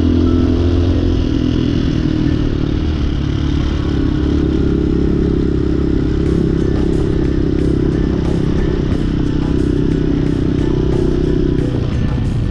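Hawk 250 dual-sport motorcycle's 250cc single-cylinder engine running steadily under way, holding a fairly even pitch.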